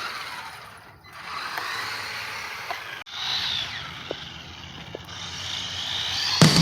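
Electric motor and gears of a toy RC truck whining in short spells, the pitch rising and falling as it drives, its battery almost flat. Loud rock music cuts in right at the end.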